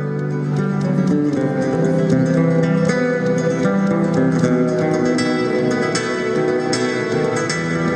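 Acoustic guitar played fingerstyle in a flamenco manner, fast plucked notes and strums over a held bass note.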